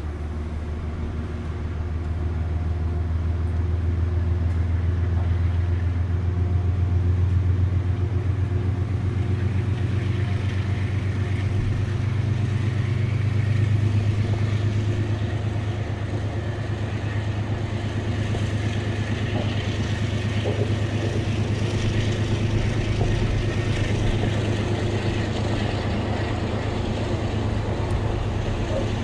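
A train running by, with a steady deep hum under a broad running noise. It grows louder over the first seven seconds or so, then holds about level.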